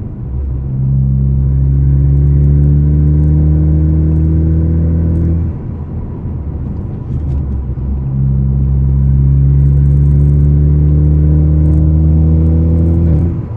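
Ford Focus ST's turbocharged 2.0-litre four-cylinder, straight-piped with muffler and resonator removed, heard from inside the closed cabin under hard acceleration. The exhaust drone climbs in pitch for about five seconds, drops at a gear change, then climbs again and drops near the end; really loud on the gas.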